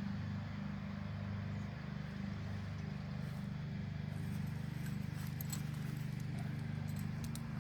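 A steady low mechanical hum, like a motor or engine running, with a few faint clicks in the middle and near the end.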